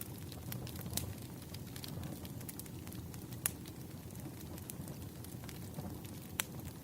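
Wood fire crackling: irregular sharp pops and snaps over a steady low rush of burning, with a few louder pops.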